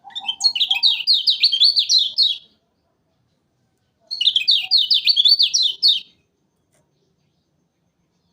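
Kecial kuning (a yellow white-eye) singing two loud, fast phrases of sweeping chirps, each about two seconds long, with a pause of a couple of seconds between them.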